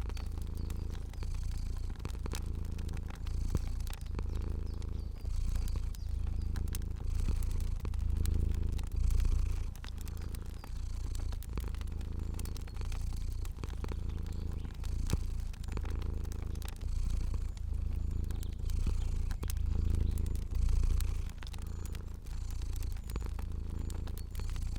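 Domestic cat purring steadily, the low rumble swelling and easing in a slow even rhythm with its breathing, with scattered light crackles of a fire.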